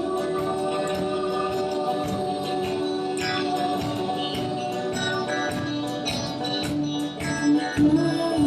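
Live band music: held, steady sung or instrumental tones over scattered light percussion hits, leading into the next sung line.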